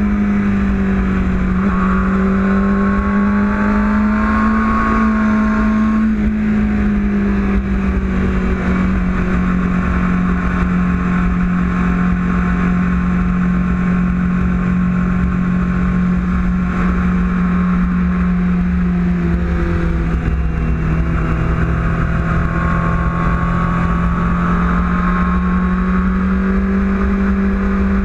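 Sport motorcycle engine running hard at high revs, heard from an onboard camera with wind noise over the microphone. The engine note holds fairly steady, dipping and climbing back a couple of times.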